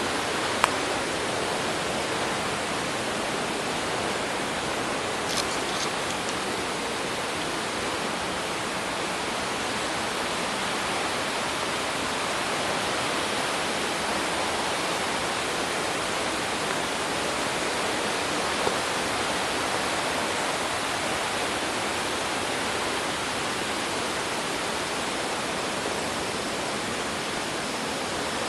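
Waterfall rushing in a steady, even roar of falling water, with a single sharp click about half a second in.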